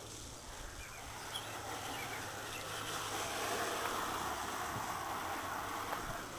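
Water spraying onto a motorcycle as it is rinsed of soap suds: a steady hiss that grows louder about two and a half seconds in.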